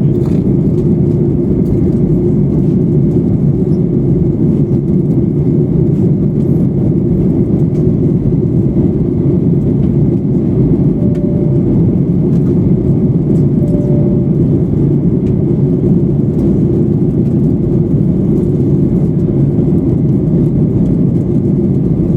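Cabin noise of a Boeing 737-800 in flight: a loud, steady, low rush of airflow and CFM56 engine noise. Two faint short tones sound about 11 and 14 seconds in.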